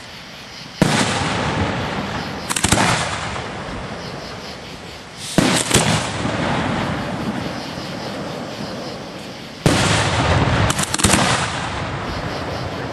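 Fireworks display shells bursting, heard from the firing site: a sharp bang every few seconds, some in quick crackling clusters, each trailing off in a long rolling rumble.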